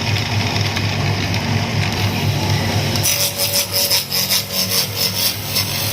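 A tool working wood in quick, uneven rasping strokes, over the steady low hum of a running machine motor. The strokes start about halfway through.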